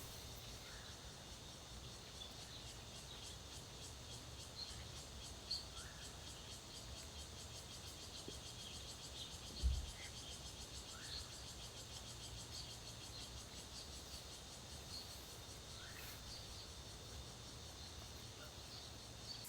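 Forest ambience: insects trilling steadily with a fast, even pulse, with occasional short bird chirps and a soft low thump about ten seconds in.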